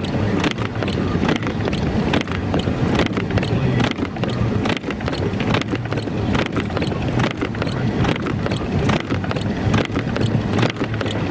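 Car driving on a snow-covered road, heard from inside the cabin: steady road, tyre and wind noise over a low engine hum, with frequent irregular clicks and knocks.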